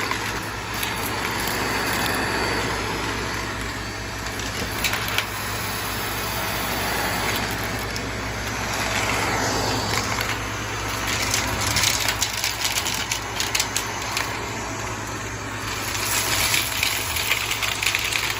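Shark vacuum cleaner running steadily as it sucks up coins, which clatter and rattle through it, thickest in the second half.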